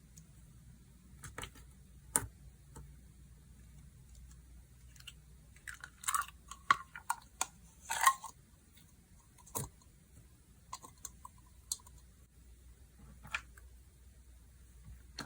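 Slime being squeezed and pressed by hand, giving scattered sticky pops and crackles, busiest around the middle.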